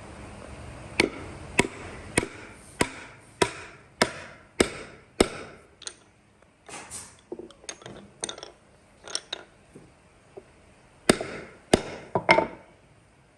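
A hand tool striking wood in a steady run of about nine sharp blows, roughly one every 0.6 s. Softer, irregular knocks follow, then a few louder blows near the end.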